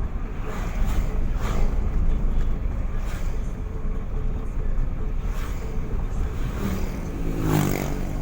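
A car on the move: a steady low engine and road rumble, with passing hiss now and then. A brief pitched tone sounds near the end.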